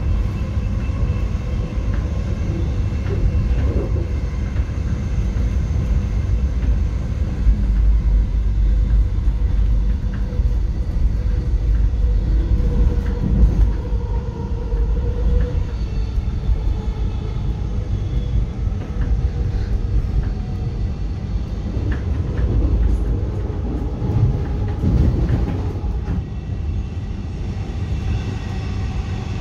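X'Trapolis 100 electric train running along the line, heard from inside the carriage: a steady low rumble with faint held tones above it and a few sharp clicks from the wheels and track.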